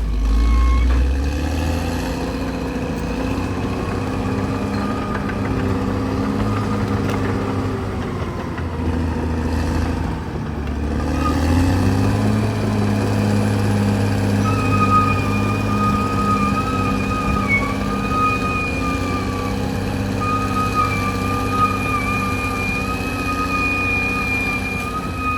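CAT D6R crawler bulldozer's diesel engine running steadily under load, its pitch shifting a couple of times as the load changes. A high, wavering whine rides over it, strongest in the second half.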